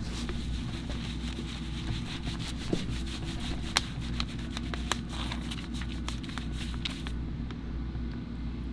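A steady low motor hum with scattered light clicks and rubbing noises over it.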